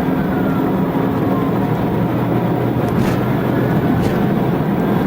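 Steady vehicle drone with a police siren wailing faintly in the background, its pitch slowly rising and falling. Two short clicks come about a second apart near the middle.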